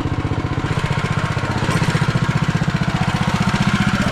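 Mini bike's small engine running steadily, picking up revs a little just under two seconds in.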